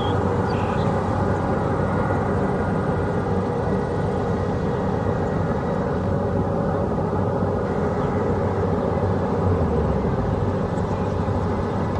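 Kubota DC-70 Plus rice combine harvester's diesel engine running steadily under load, with no change in speed.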